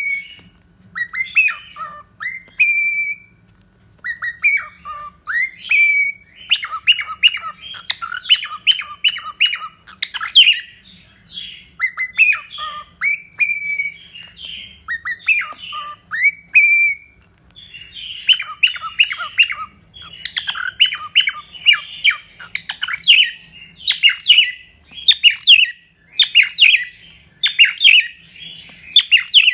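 Cockatiel singing: short rising whistles alternate with fast runs of chirpy chatter and squawks, going on with only brief pauses.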